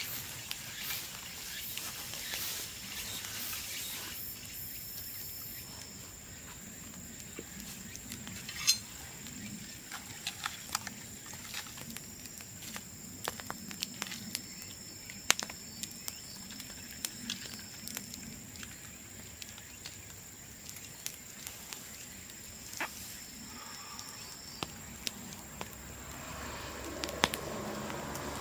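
Bamboo burning in an open bonfire: irregular crackling with scattered sharp pops, three of them much louder than the rest.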